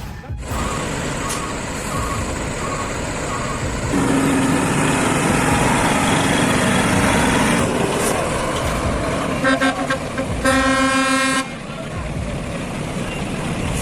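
Heavy vehicle engine and road noise, with a couple of short horn toots about nine and a half seconds in, followed by a horn blast of about a second that cuts off suddenly.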